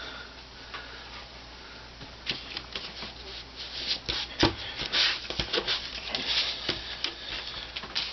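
Thin, brittle wood veneer sheet being handled and flexed by hand, giving irregular dry crackling and rustling. The crackles come thickly from about two seconds in.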